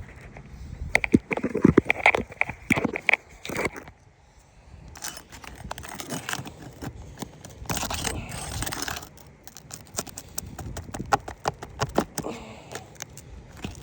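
A metal roofing tool scraping and clinking against asphalt shingles, with the crackle of the brittle shingles as they are worked loose. There are many short clicks, and a longer stretch of scraping about halfway through.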